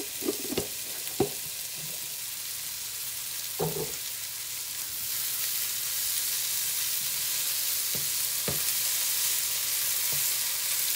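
Sliced tindora (ivy gourd) sizzling in hot oil in a frying pan while a wooden spatula stirs it, knocking against the pan a few times. The sizzle grows a little louder about halfway through.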